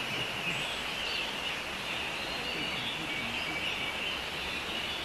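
Tropical forest ambience: a steady high-pitched insect drone with a few faint bird chirps.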